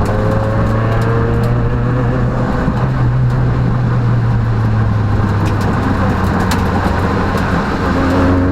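Peugeot rally car's engine running at fairly steady revs, heard from inside the cabin under dense road and tyre noise, with a few faint ticks.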